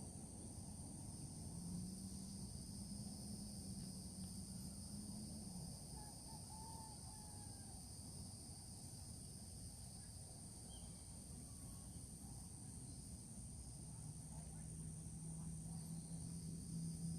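Steady high-pitched insect chorus over a low outdoor rumble. A faint short chirp comes about six seconds in, and a low steady hum is heard twice, early on and near the end.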